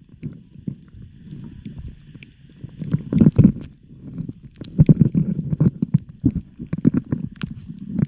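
Muffled underwater sound of moving water: an uneven low rumbling with scattered clicks, swelling louder about three and five seconds in.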